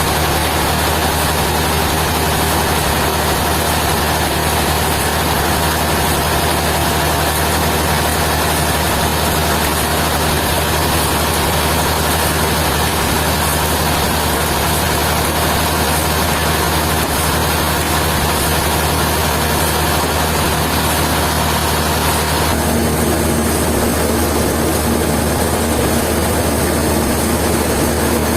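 Heavy engine running steadily, a low hum with a higher whine over it. About 23 seconds in, the whine stops and the pitch of the running shifts.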